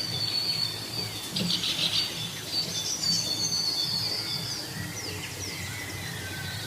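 Small birds chirping and twittering in quick high notes and short falling whistles, over a steady low background noise.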